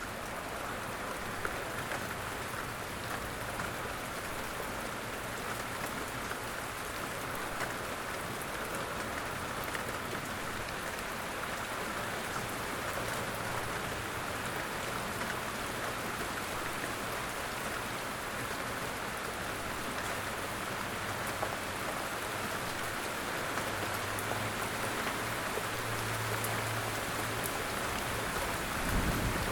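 Light rain falling steadily in woodland, an even patter of drops with scattered sharper drip ticks. A faint low hum runs underneath and grows stronger over the last few seconds.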